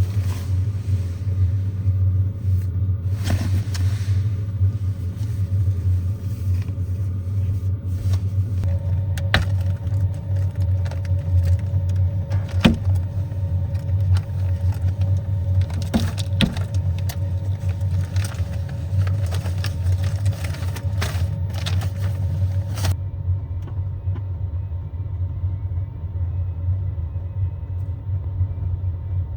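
Kei van running, a steady low rumble with a few short clicks and knocks over it.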